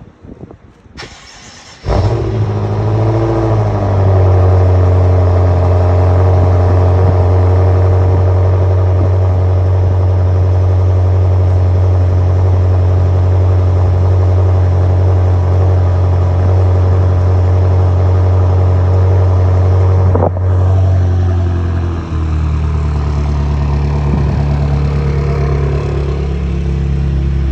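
Car engine cold start: a brief crank, then the engine catches about two seconds in with a short rev flare and settles into a loud, steady fast idle. Near the end the idle steps down to a lower, deeper note as the cold-start high idle drops.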